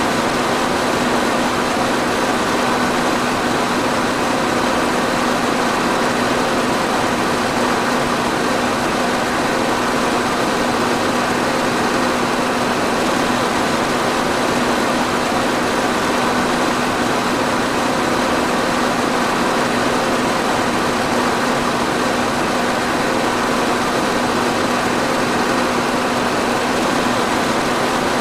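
Electric fan running steadily: an even rush of moving air with a constant hum under it.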